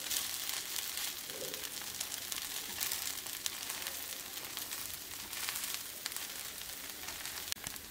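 Samak-rice dosa frying in oil on a hot flat tawa: a steady sizzle.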